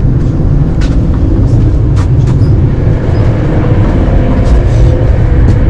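Steady low rumble of a high-speed passenger train running at speed, heard inside the carriage, with a few sharp clicks.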